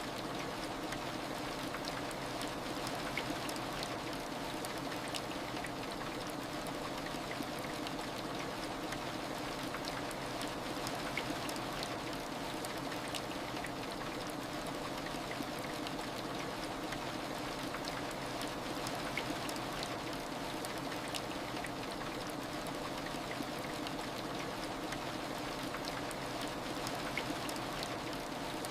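Steady heavy rain: an even hiss with scattered drop clicks and a faint steady hum underneath.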